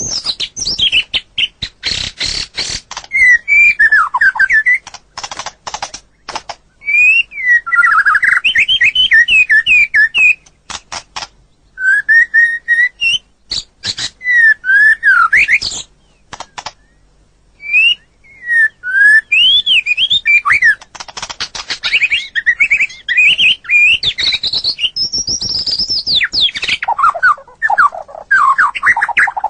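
White-rumped shama (murai batu) singing in phrases of clear whistled notes that sweep up and down, broken by runs of sharp clicking, chattering notes, with short pauses between phrases.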